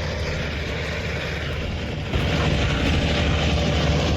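Diesel engine of a large Big Bud articulated tractor running hard under load while stuck, a dense low drone that gets louder about two seconds in.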